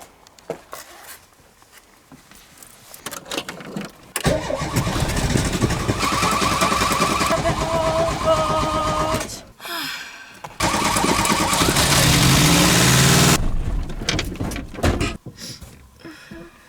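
Renault 9 engine being cranked on the starter in two long attempts, about four seconds in and again near ten seconds, without catching and running. Some faint clicks come before the first attempt.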